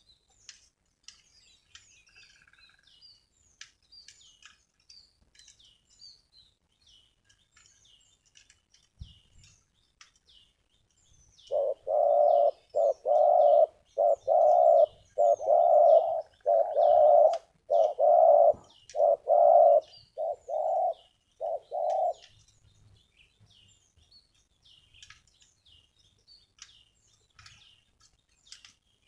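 Spotted dove cooing: a long run of deep coos lasting about ten seconds, starting a little before halfway and stopping a few seconds past two-thirds of the way. Small birds chirp faintly and high-pitched throughout.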